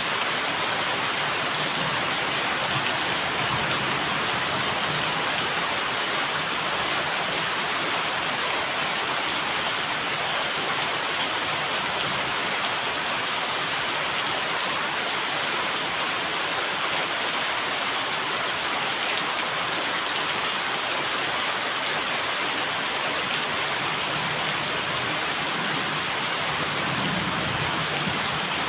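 Steady heavy rainfall, an even, unbroken hiss of rain falling on surfaces.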